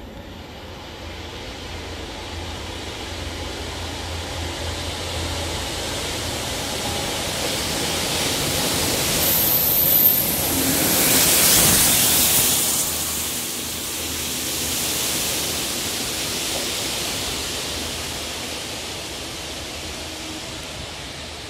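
A Network Rail Multi-Purpose Vehicle passing close by on the line: a steady rushing noise that builds to a peak about ten seconds in and then fades as it moves away. There is a brief high squeal just before it draws level.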